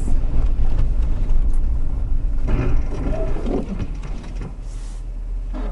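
Windshield wipers scratching across a snow-covered windshield, catching on the snow, over the low rumble of the vehicle running.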